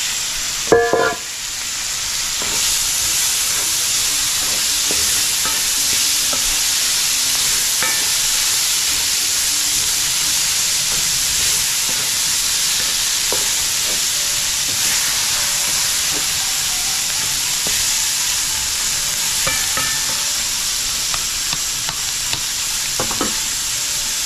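Curry and green pigeon peas sizzling steadily in hot oil in a pot while being stirred, with small scrapes and clicks of the spoon. There is a short, louder knock about a second in.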